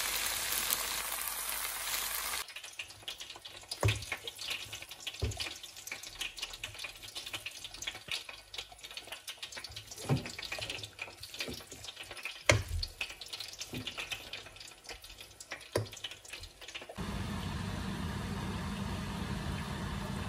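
Noodle stir-fry sizzling in a wok, cutting off suddenly about two and a half seconds in. Then a spatula stirs and tosses the noodles, with scattered knocks and scrapes against the pan. Near the end a steady low hum takes over.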